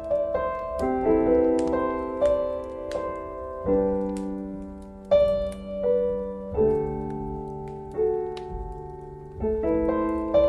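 Slow solo piano music, soft chords struck every second or two and left to fade, with scattered crackles from a fireplace underneath.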